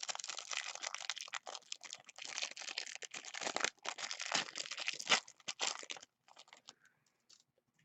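A trading-card pack's wrapper being torn open and crinkled by hand: dense crackling and tearing for about six seconds, then a few faint rustles and clicks.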